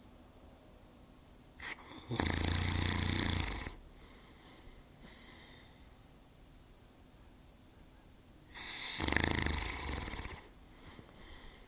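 Saint Bernard snoring loudly: two long snores about six seconds apart, with faint breathing between them.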